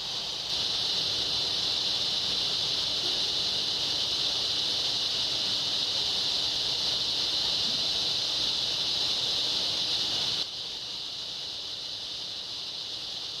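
A steady, high-pitched chorus of insects buzzing. It gets abruptly louder about half a second in and drops back abruptly about three seconds before the end.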